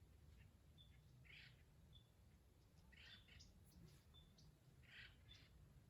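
Near silence, with a faint bird repeating a short, high single note about once a second. Three soft hissy puffs come between the notes.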